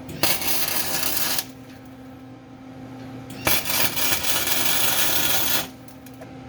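Flux-core wire-feed welder laying two short welds on a car's torque box, the arc crackling and sputtering. The first weld lasts about a second; the second starts about three and a half seconds in and lasts about two seconds.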